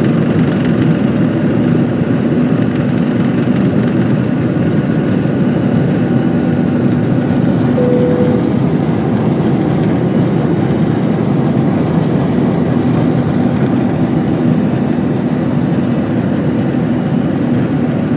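Airbus A320 cabin noise in flight: a loud, steady roar of the jet engines and rushing air, with a faint steady hum underneath.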